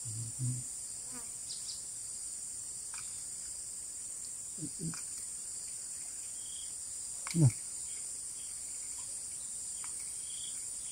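Steady high-pitched chorus of insects. A few brief low knocks sound over it, the loudest about seven seconds in.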